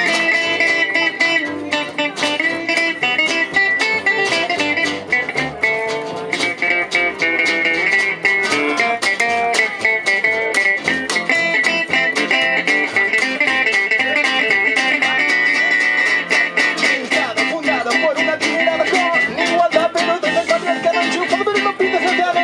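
Live jazz manouche band playing, with acoustic guitar strumming a steady rhythm under a sustained melody line.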